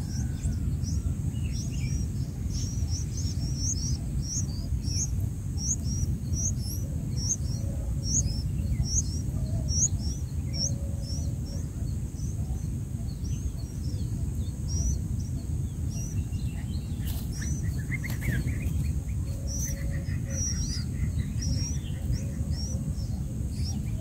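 Small birds chirping: a run of short, high chirps about twice a second, thinning out and becoming irregular about halfway through, over a steady low background rumble.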